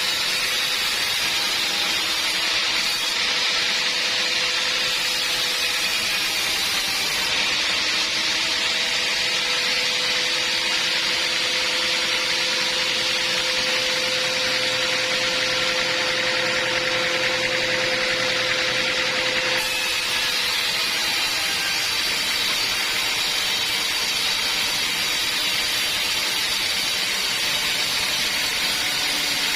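Band sawmill running steadily, its blade cutting through wood, with a continuous hiss and a steady whine. The sound changes abruptly about two-thirds of the way in.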